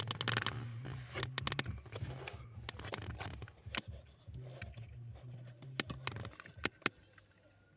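Renault Kangoo heater blower motor switched on, running with a steady low hum and an irregular clicking rattle, then switched off about six seconds in. The rattle is typical of dirt caught in the blower fan.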